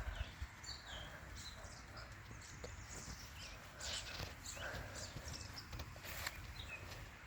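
Faint outdoor ambience: scattered short bird chirps over a low rumble, with a couple of light knocks about four and six seconds in.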